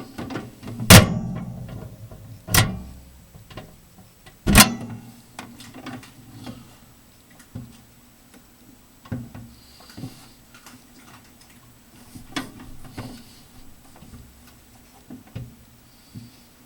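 Microwave oven door being opened and shut: three loud latch clunks in the first few seconds, then lighter scattered clicks and knocks.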